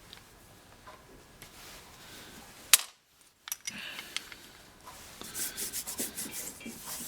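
Hands working the small metal parts of a bench lathe's cross slide and compound: light rubbing and scraping, with a sharp click about two and a half seconds in, a brief dropout, then more clicks and scraping toward the end.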